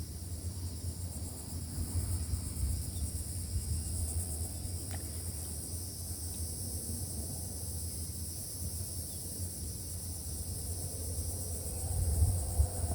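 Steady high-pitched insect chorus over a low rumble, which swells briefly near the end.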